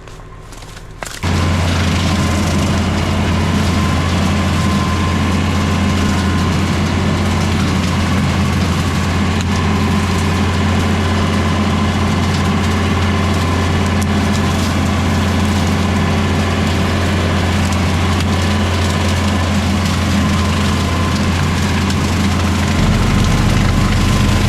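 LS MT573 diesel tractor running under load with its Woods BushBull rotary cutter chopping through bamboo. A loud, steady drone with cracking wood mixed in, starting abruptly about a second in.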